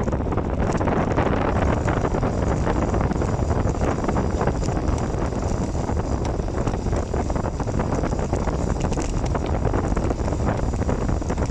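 Steady wind buffeting the phone's microphone as a bicycle rolls downhill, with small crackling knocks throughout.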